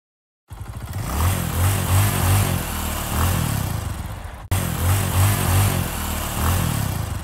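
Sound effect of a car engine revving and accelerating, played twice: it starts about half a second in and begins again abruptly about four and a half seconds in.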